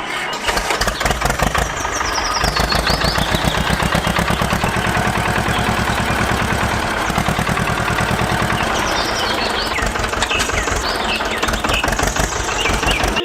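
Small engine of a homemade mini tractor running with a fast, even firing beat that grows stronger about two seconds in.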